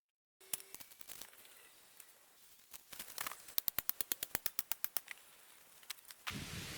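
A run of sharp clicks or knocks, scattered at first, then about five a second for a couple of seconds. Near the end a steady rain-like hiss starts abruptly.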